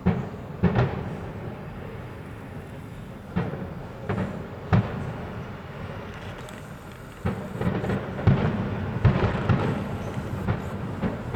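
Aerial fireworks bursting: a few separate bangs, then a denser run of bangs and crackling starting about seven seconds in.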